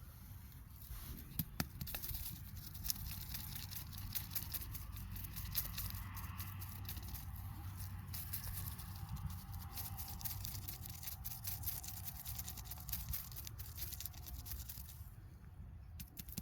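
Footsteps crunching and rustling through leaf litter and twigs on a forest floor, a steady run of small crackles that fades out near the end.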